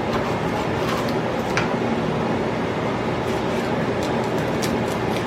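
Steady mechanical hum in the kitchen, with a few sharp knife taps on a cutting board as jalapeño peppers are sliced into strips.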